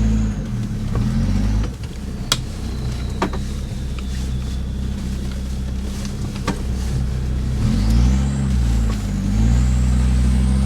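Off-road 4x4's engine labouring on a climb, revs rising and falling, held lower and steadier in the middle and picking up again near the end, with a faint whine that climbs with the revs. Three or four sharp knocks sound over it.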